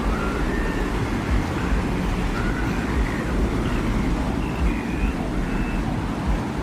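Steady low rumbling desert wind, with faint short high whistling tones drifting over it.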